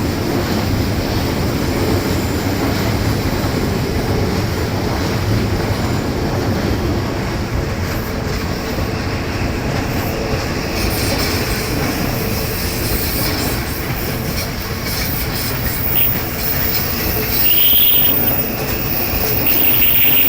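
Odakyu Line electric train running past over a level crossing, its wheels rumbling steadily on the rails, with brief high wheel squeals near the end.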